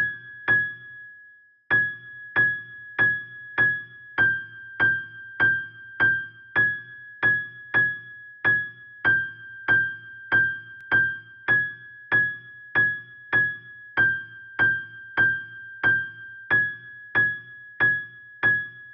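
A piano-type keyboard playing the single high note G6 over and over, about one and a half strikes a second, each note decaying quickly, after a short pause about a second in.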